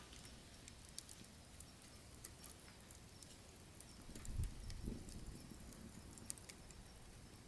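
Wood fire crackling, with scattered sharp pops and snaps and a brief low rumble about four and a half seconds in.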